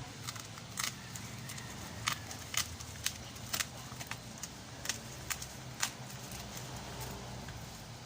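Cardboard box and packaging being handled and opened: irregular sharp clicks and crackles, about a dozen over the stretch, over a steady low background.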